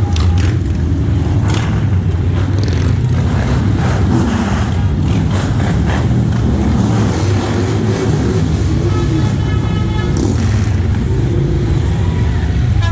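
A column of motorcycles riding past with a steady, loud low engine rumble. A horn sounds briefly about two-thirds of the way through.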